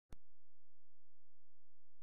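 The outdoor sound cuts off abruptly, followed by a brief click and then an unchanging low hum with nothing else in it.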